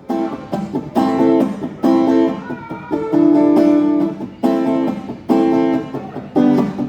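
Acoustic guitar strumming chords in a steady rhythm, a loud chord struck roughly once a second with lighter strokes in between.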